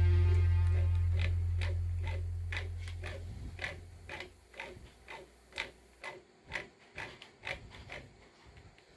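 Background music fading out, with a regular ticking about twice a second that stops shortly before the end.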